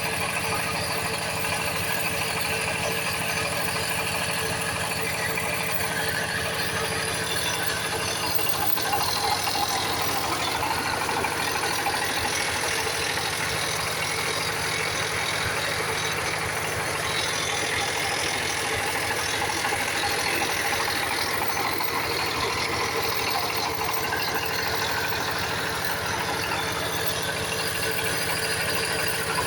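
Small engine running steadily at an even speed, with a brief knock about nine seconds in.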